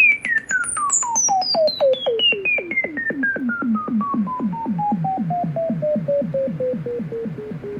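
Synthesized electronic sound effect: a clean tone sliding slowly and steadily down in pitch, under a chirping pulse that repeats about five times a second and falls along with it, stopping near the end.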